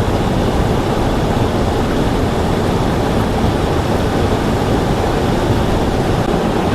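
Strong wind blowing over the microphone in near-blizzard conditions: a loud, steady rushing with heavy low rumble.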